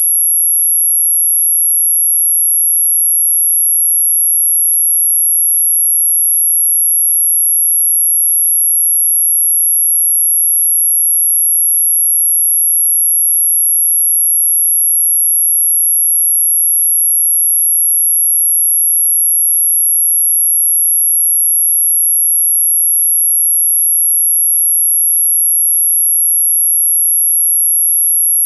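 A single steady, very high-pitched electronic sine tone, held at one pitch without change, played as an anti-mosquito repellent tone.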